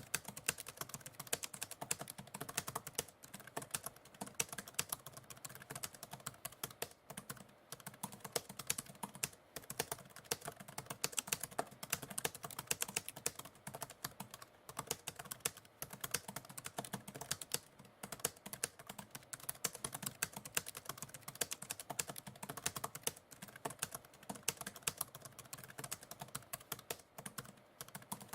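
Continuous typing on a computer keyboard: quick, irregular key clicks with short pauses now and then.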